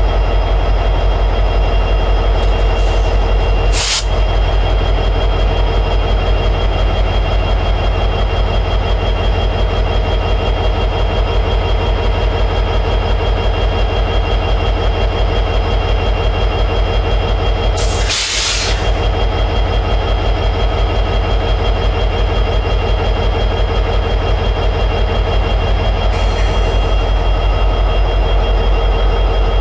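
EMD 710G3B two-stroke diesel prime mover of an SD60E locomotive running steadily in high idle. Three short hisses break in: a few seconds in, about midway, and near the end.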